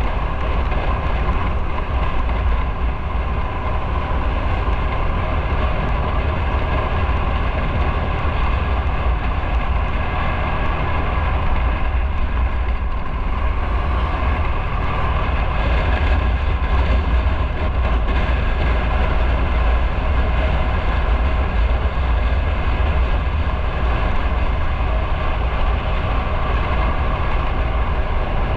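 Motorcycle riding at a steady speed: the engine runs continuously under heavy wind and road rumble on the mic.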